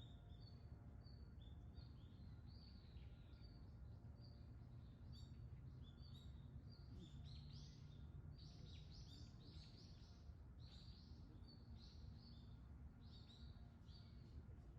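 Small birds chirping: many short, high calls, denser in the middle of the stretch, over a faint steady low rumble of outdoor background noise.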